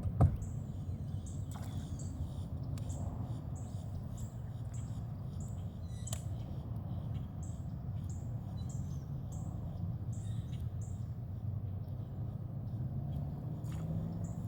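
Short high chirps repeating about twice a second over a steady low rumble, with a single sharp knock just after the start.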